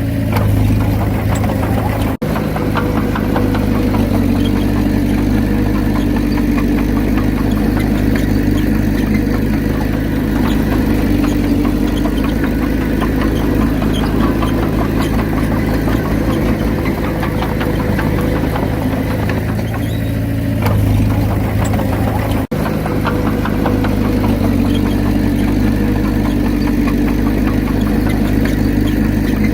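Komatsu D31P bulldozer's diesel engine running steadily, with two very brief sudden gaps in the sound, about two seconds in and again near the three-quarter mark.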